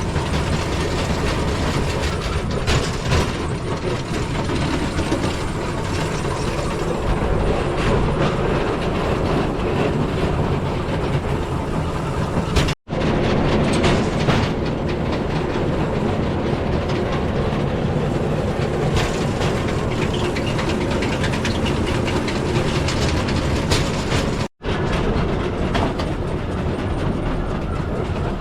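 Steel wheels of a pedal rail bike rolling along old railway track: a steady rolling rumble with scattered clicks, broken twice by a split-second silence.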